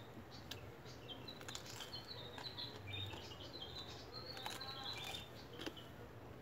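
Small birds chirping in quick short notes throughout, with a few crisp crunches from bites of raw green papaya.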